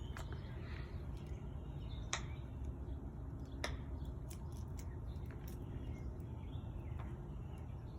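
Steady low background rumble with a few faint, sharp clicks scattered through it.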